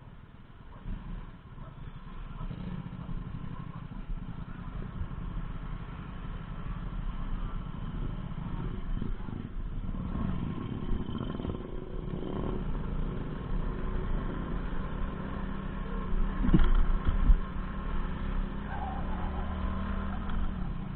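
A vehicle engine running steadily, growing louder over the first few seconds, with a couple of short knocks near the end.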